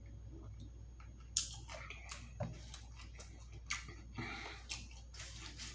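Close-miked mouth chewing of Wingstop food, with short wet clicks every half second or so.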